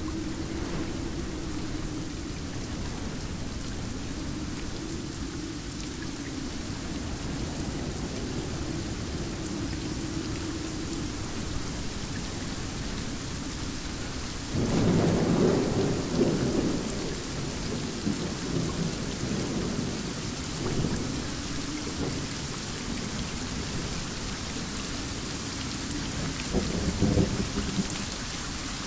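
Heavy rain falling steadily during a thunderstorm. About halfway through a loud thunderclap breaks in with a sudden low crack and rolls away over several seconds. Near the end a second, shorter burst of thunder rumbles.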